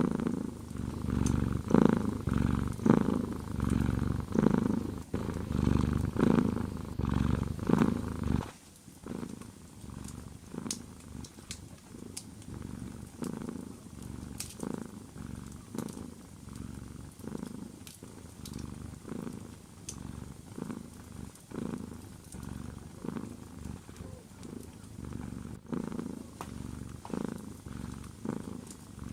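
Domestic cat purring close up, pulsing about once a second with each breath; it drops suddenly to a quieter purr about eight seconds in. Faint crackles of a wood fire sound throughout.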